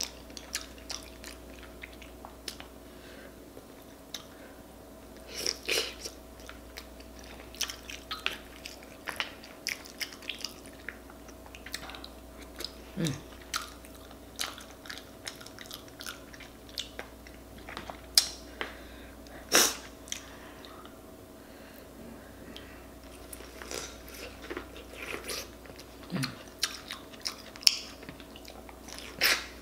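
Close-up eating sounds: a person chewing and biting boiled potatoes and corn on the cob coated in a buttery seafood sauce, with many short wet smacks and clicks of the mouth. Twice a brief hum breaks in.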